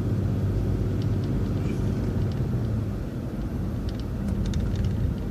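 City bus engine and road noise heard from inside the bus as it drives along, a steady low drone, with a few light rattles about four seconds in.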